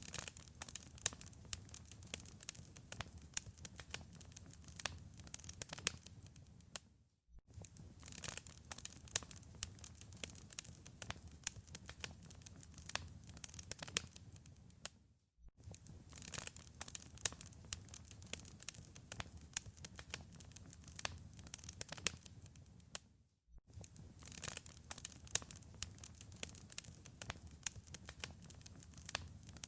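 Wood fire crackling in a fireplace: dense sharp crackles and pops over a low rumble. A brief silent gap cuts in about every eight seconds, three times.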